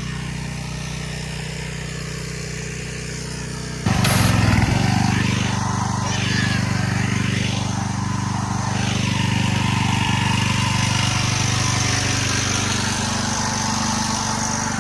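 Gas-engine pressure washer running steadily. About four seconds in the sound jumps louder as the wand sprays, a steady engine note under a hiss of spray that shifts as the jet sweeps across the truck.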